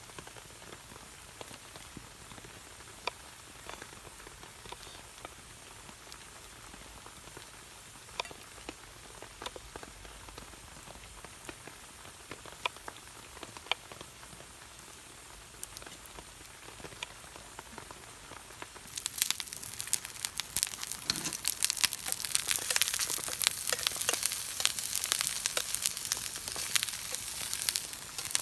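Scattered faint drips and ticks, then about two-thirds of the way in a sudden loud sizzle as food goes into a hot pan and keeps frying with dense crackling.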